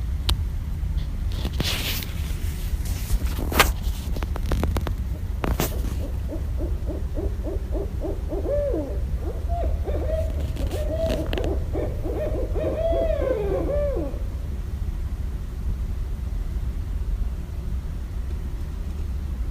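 Barred owl calling: a fast run of hoots and cackles, each note rising and falling, lasting about eight seconds in the middle. A few sharp clicks come in the first few seconds, and a steady low rumble runs underneath.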